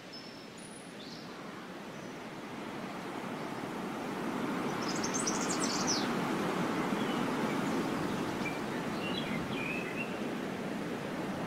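Outdoor ambience: a steady rushing noise that swells over a few seconds and then eases slightly, with a brief burst of bird chirps about five seconds in and a few faint chirps near the end.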